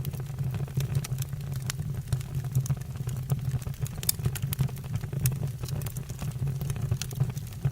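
Wood fire burning in a fireplace, the logs crackling with frequent irregular sharp pops over a steady low rumble of the flames.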